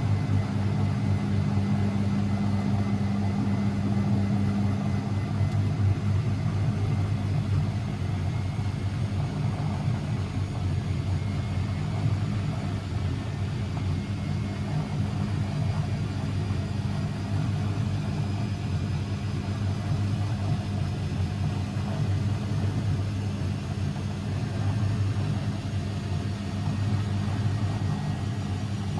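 Constructa Energy 1000s washing machine running, a steady low hum with no clear rise or fall in pitch.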